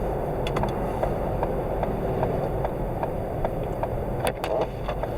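Steady road and engine noise inside the cabin of an all-wheel-drive car on snow tires, with scattered sharp ticks over the hum.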